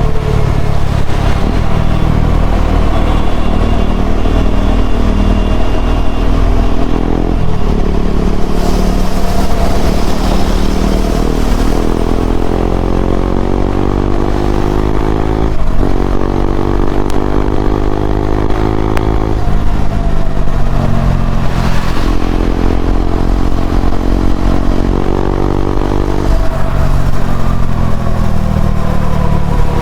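KTM Duke 390's single-cylinder engine breathing through an Akrapovic slip-on exhaust while riding. The engine pitch climbs, drops at gear changes a few times, then falls away as the bike slows near the end.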